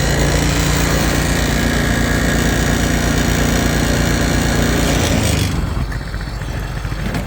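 Small dune buggy engine held at high revs under load as it tries to climb an icy snow-covered slope. About five seconds in, the revs drop back to a lower, rougher running.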